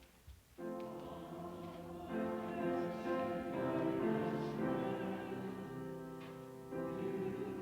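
Choir singing slow, held chords, coming in about half a second in after a brief pause, with the chord changing every second or two.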